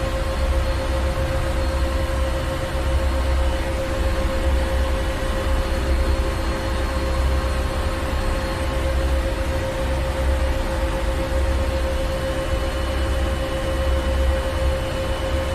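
Ship's engine room: heavy machinery running steadily, with a deep rumble that swells and fades every couple of seconds under a constant whine and a wide mechanical hiss.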